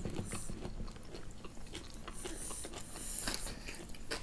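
Mouth sounds of eating sweet potato with kimchi: chewing with scattered small wet clicks and smacks.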